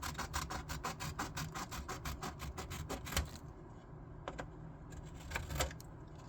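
Rapid back-and-forth scribbling of a drawing tool on paper while colouring in, about six scratchy strokes a second. It stops about three seconds in, and a few separate light taps follow.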